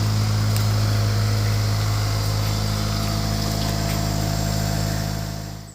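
Range Rover Evoque engine idling steadily with an even low hum, cutting off abruptly near the end.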